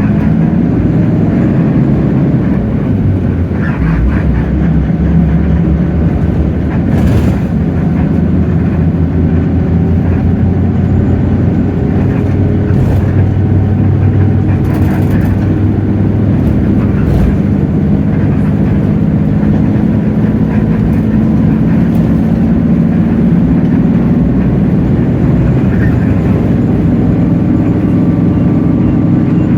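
Hino J08E-VN inline-six turbodiesel of a Hino city bus running under way, heard from inside the bus. The engine note shifts in pitch several times as the bus drives.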